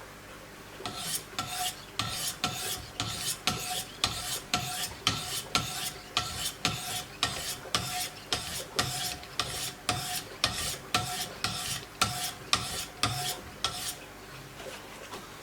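Wicked Edge guided sharpener's stones scraping along a steel knife blade in steady strokes, about two a second. Each stroke has a faint ring. The strokes start about a second in and stop near the end.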